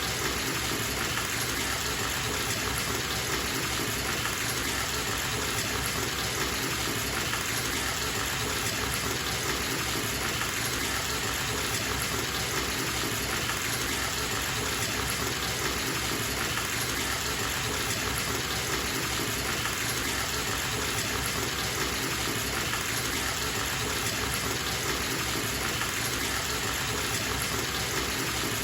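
Water running steadily from a bathtub tap into the tub as it fills, a constant rushing splash with no change in level.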